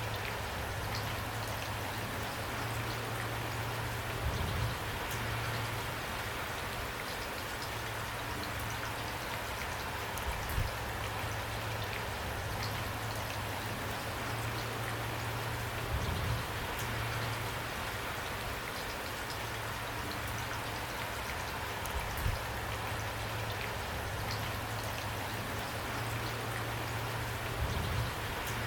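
Steady rain falling, an even hiss of drops with scattered individual drop ticks and a few louder hits about every six seconds.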